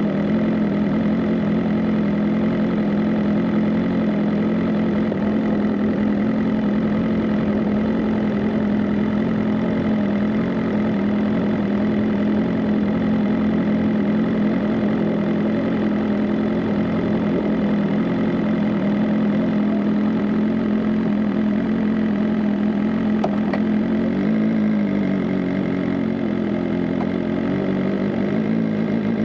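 BMW M 1000 RR's inline-four engine running at a steady, even pitch, dipping briefly and picking up again near the end.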